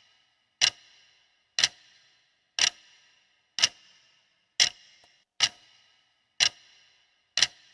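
Countdown timer sound effect: a clock ticking steadily, one sharp tick about every second, each with a short bright ring.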